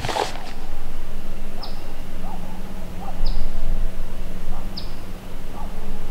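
A bird chirping repeatedly, a short high call that drops slightly in pitch about every second and a half, with fainter lower calls between, over a steady low hum.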